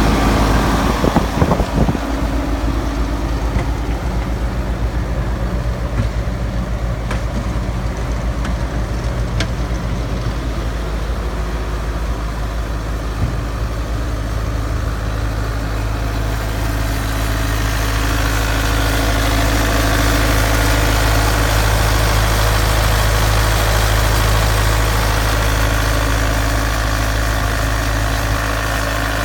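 Bobcat S185 skid steer's Kubota turbo diesel engine running at idle, then throttled up a little past halfway and held steady at a higher speed.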